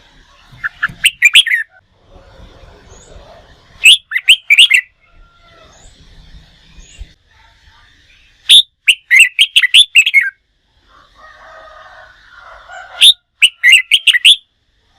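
Red-whiskered bulbul singing loud, rapid bursts of chirping, whistled notes, four phrases with short pauses between them.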